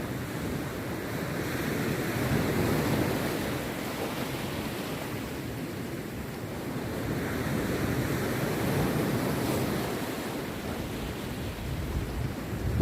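Rough sea surf breaking on a beach: a steady wash of waves that swells twice, about two seconds in and again about eight seconds in, then falls back.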